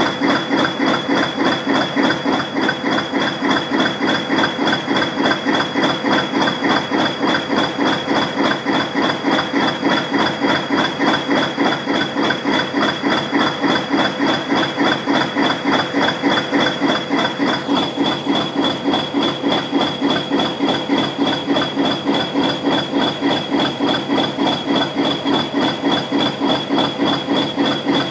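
Class 20 diesel locomotive's English Electric 8SVT V8 diesel engine running steadily while warming up after a cold start, with an even knocking beat of about two to three a second and a steady high whine over it.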